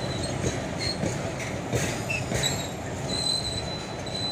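Empty flat container wagons of a freight train rolling past, steel wheels running on the rails with scattered knocks over the rail joints. A thin high wheel squeal comes and goes and is held longest near the end.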